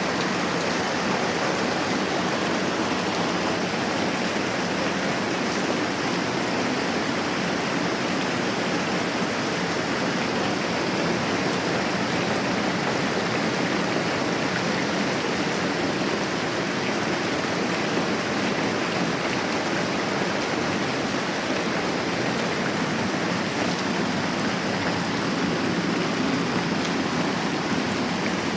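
Moderate rain falling steadily, an even hiss with no distinct drops or breaks.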